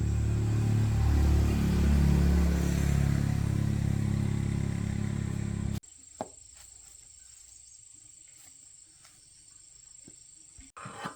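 Win FIGO 110cc motorbike's single-cylinder four-stroke engine running at a steady idle, then stopping abruptly about six seconds in.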